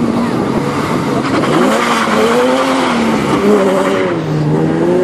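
Several race car engines revving together, their pitches rising and falling and overlapping.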